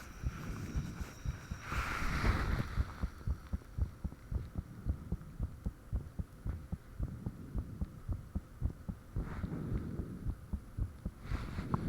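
Human heartbeat recorded up close: a steady run of low, dull lub-dub thumps that the uploader calls really thumpy. A soft rushing noise swells up about two seconds in and again near the end.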